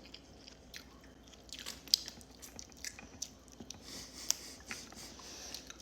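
Close-up chewing and biting on tough king crab meat, with scattered small wet clicks and crackles.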